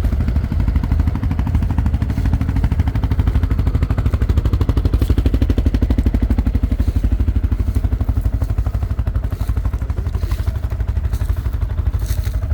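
ATV engine idling with an even low pulsing, running a little louder for a few seconds in the middle.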